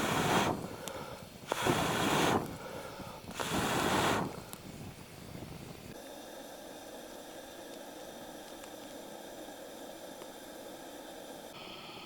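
Three long rushing blows of breath, about two seconds apart, followed from about six seconds in by a steady faint hiss with a hum.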